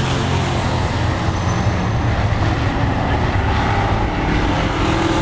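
Pro-class racing trucks' engines running at speed around an oval track, a loud steady drone with no clear passes or breaks.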